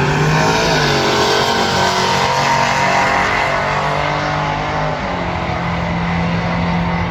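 Engine of a drag-racing truck running loud at the strip, its pitch falling over the first second and then holding steady.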